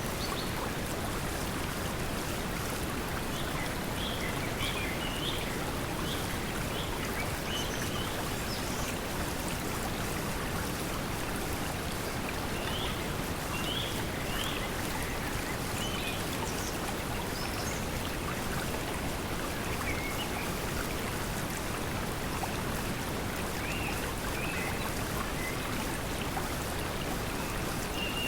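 Steady pink noise mixed with flowing water, with short bird chirps coming and going throughout.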